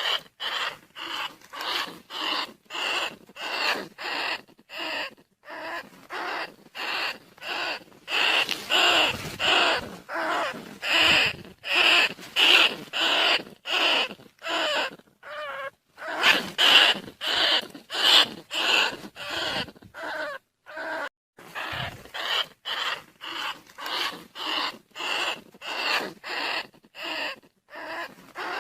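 Rat squeaks played as a lure call for rice-field rats and bandicoot rats. Short squealing calls repeat about twice a second, with a few brief pauses.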